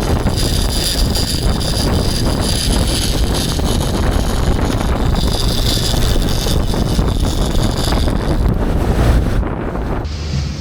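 Wind buffeting the microphone on a moving fishing boat, over the boat's motor and the rush of water along the hull.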